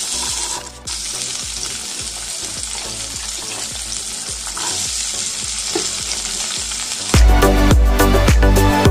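Cut green beans sizzling as they fry in hot oil in a metal pan. Background music with a steady beat starts about seven seconds in and drowns the sizzle.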